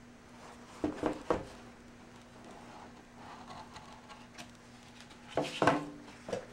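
Hands handling and opening a watch box and its packaging: a few sharp knocks and clicks about a second in, soft rustling, then a louder cluster of knocks and rustles near the end, over a steady low room hum.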